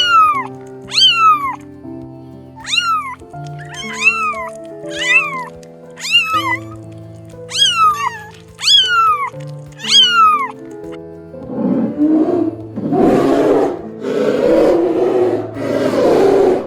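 A cat meowing about nine times in quick succession, each short meow falling in pitch, over background music. After about eleven seconds come four loud, rough roars.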